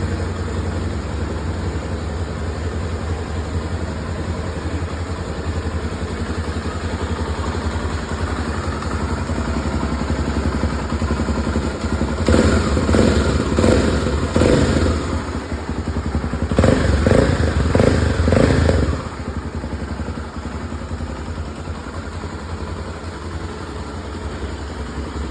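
Honda XR250 Tornado's single-cylinder four-stroke engine idling, revved in two short clusters of quick throttle blips around the middle, then settling back to idle.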